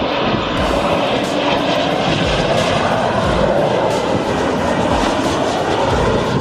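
Jet airliner's engines roaring steadily as it passes low over the runway end.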